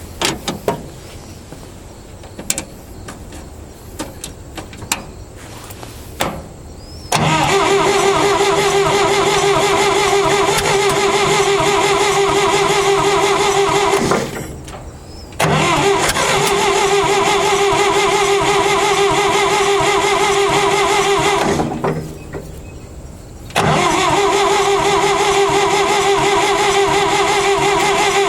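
A vehicle engine being cranked over by its starter in a cold start, in three long bursts of about six to seven seconds each with short pauses between, a steady pitched whir throughout. A few light clicks and knocks come before the first crank.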